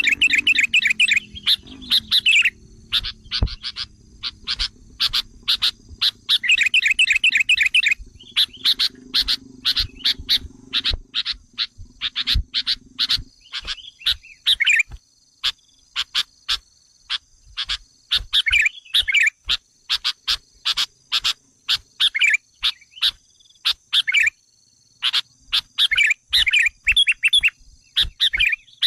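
Sooty-headed bulbul (kutilang) lure calls: a rapid series of sharp, chattering call notes with quick trilled phrases near the start and about seven seconds in. These are the agitated calls used to provoke wild bulbuls. A faint, steady high whine runs underneath.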